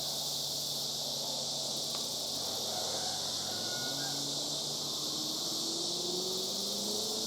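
Steady, high buzzing drone of a cicada chorus. About four seconds in, a vehicle engine comes in low and rises steadily in pitch as it speeds up.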